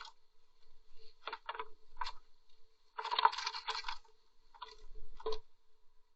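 Short scratching and rustling noises, with a dense run of them a little past the middle, as a blue tit moves about inside the nest box over a faint steady electrical hum.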